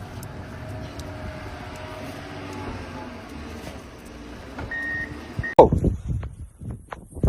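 A motor vehicle engine running steadily, with a short high beeping tone twice near the end. Then a sudden change to a few loud thuds and knocks.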